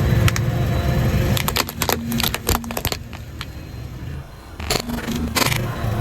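Car rolling slowly over crunchy objects under its tyre: a low engine rumble with a quick run of sharp cracks and snaps, a pause, then a few more cracks near the end.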